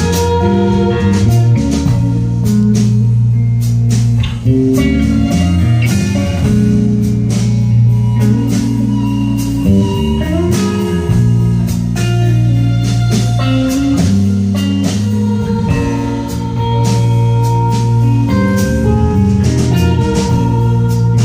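Live rock band playing an instrumental passage: electric guitars over a steady drum kit beat and bass, no vocals.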